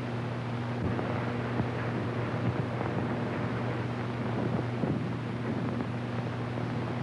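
Steady hiss and hum of a worn early-sound-film soundtrack, with a few faint crackles.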